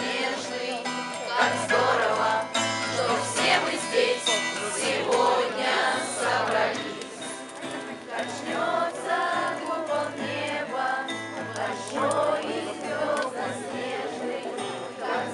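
A song with instrumental accompaniment and a group of voices singing together, with a steady bass line.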